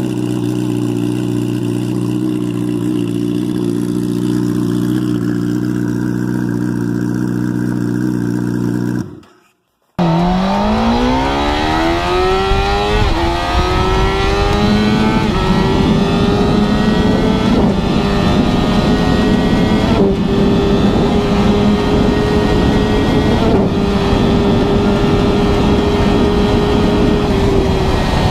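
A high-performance motorcycle engine first runs at steady revs. After a brief dropout it accelerates hard, its pitch climbing for about four seconds. It then holds high revs at speed, with a few brief dips along the way.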